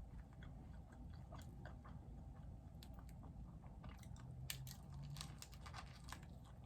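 Close-miked chewing and biting of food: moist mouth clicks and small crunches, which come thicker and sharper in the second half.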